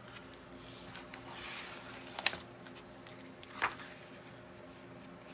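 Paper and craft materials being handled: a soft rustle, then two short sharp clicks about a second and a half apart.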